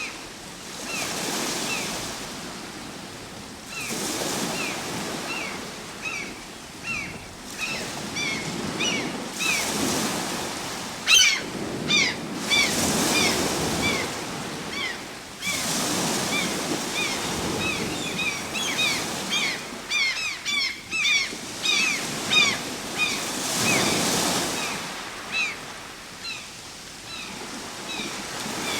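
Ocean waves washing in, swelling and fading every few seconds, with a small bird giving many short, high, quick chirps over the surf.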